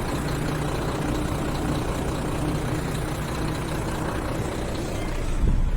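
Truck engine running steadily with an even low hum, swelling into a louder low rumble near the end.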